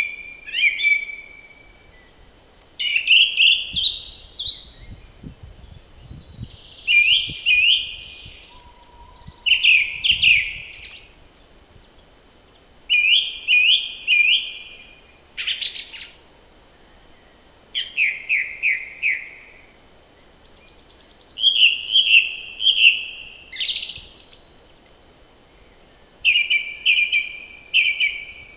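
Songbirds singing in short phrases of quickly repeated notes, one every two to three seconds, with a faint low wind rumble partway through.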